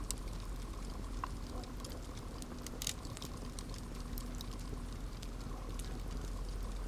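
Campfire crackling: scattered sharp pops and snaps of burning wood over a steady low rush of flame, with a louder crackle about three seconds in.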